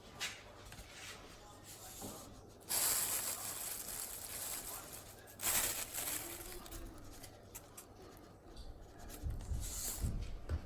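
Rubbing and rustling noises of food preparation, in two longer stretches about three and five and a half seconds in, with a few low thumps near the end.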